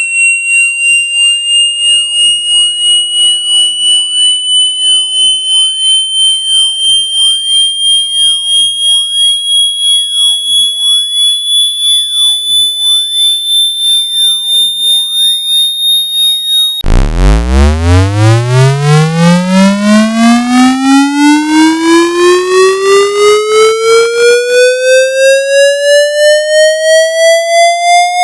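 Synthetic water-eject speaker-cleaning tones. A high electronic tone glides slowly upward while pulsing rapidly. About two-thirds of the way in it switches abruptly to a buzzy low tone that sweeps steadily upward from a deep hum, still pulsing.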